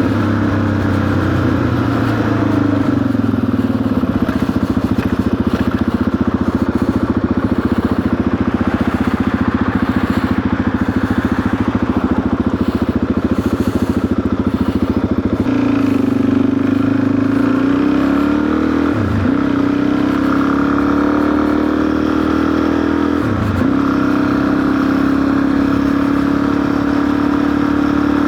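Suzuki DR-Z400's single-cylinder four-stroke engine running under way at steady revs. The engine note steps up about halfway through, and twice in the second half the revs drop briefly and climb again.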